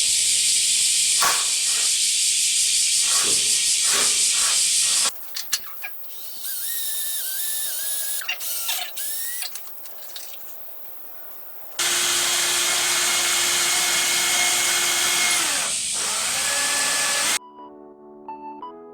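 Electric power tool running in two long spells with a strong high hiss, a quieter stretch of lighter tool noise between them; it cuts off suddenly near the end.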